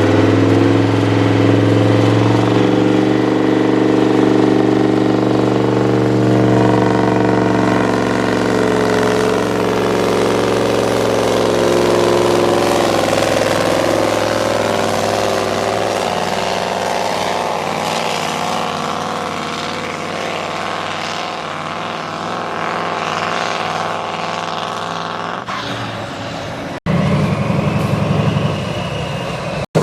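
A competition pulling tractor's engine running hard at a steady high pitch, slowly fading as it moves away. Near the end the sound cuts suddenly to another loud engine.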